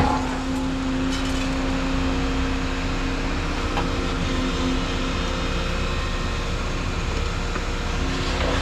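Volvo 235EL excavator's diesel engine and hydraulics running steadily, with a steady hum and a short knock right at the start.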